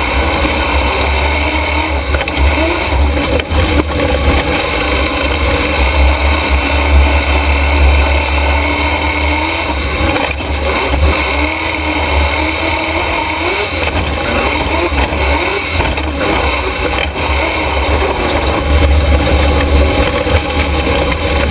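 Super Stock race truck running on track, its motor note rising and falling over a heavy steady rumble.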